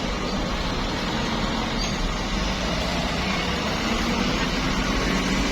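Bus engine running with steady road noise; the engine note climbs slightly over the last few seconds.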